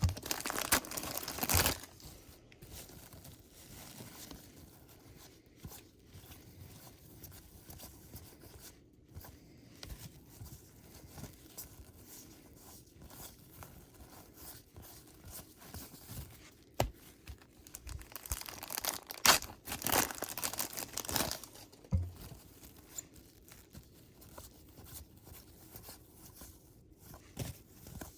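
Trading card pack wrappers being torn open and crinkled, with quieter rustling and small clicks of cards being handled in between. The loudest tearing and crinkling comes at the start and again about two-thirds of the way through.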